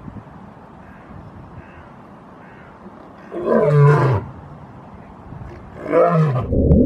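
A big cat roaring twice, about two seconds apart, each roar dropping in pitch as it ends.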